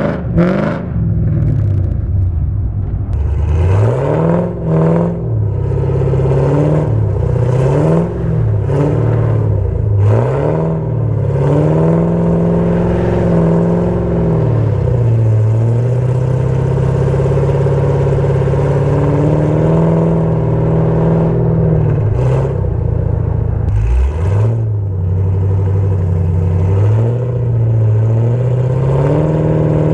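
Camaro engine through a full XS Power headers-back exhaust with mufflers, revving up and falling back several times, then holding a steady note for several seconds. Near the end it drops off and climbs again.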